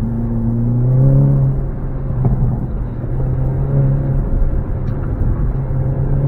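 Hyundai Elantra N's turbocharged four-cylinder engine heard from inside the car on an autocross run. The revs climb about a second in, ease off, then build again.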